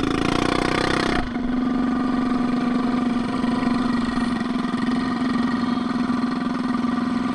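Minibike's small engine running at a steady, unchanging speed. A loud rush of noise covers the first second.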